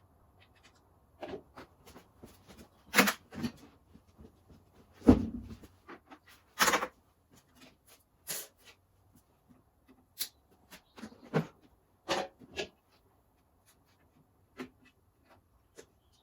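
Irregular clicks, taps and knocks from hands and tools working on parts in a car's engine bay, with a heavier knock about five seconds in.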